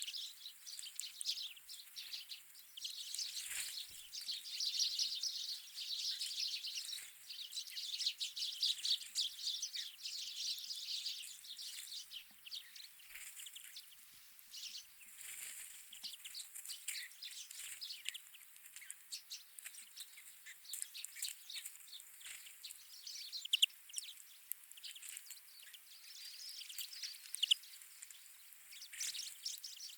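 Wild birds chirping and twittering: a dense run of overlapping short chirps for the first half, thinning to scattered calls later, with two sharper, louder calls in the second half.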